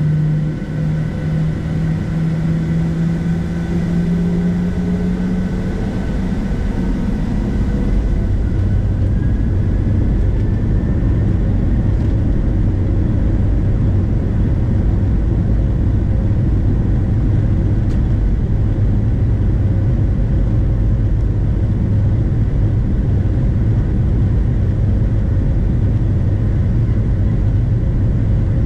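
Boeing 737-700's CFM56 jet engines heard from inside the cabin. A strong engine tone rises in pitch over the first few seconds, then gives way to a steady, loud rumble about eight seconds in, as at takeoff thrust or the climb.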